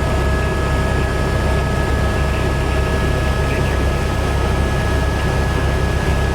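Steady, loud engine rumble with a constant high whine of a few fixed tones above it, unchanging throughout.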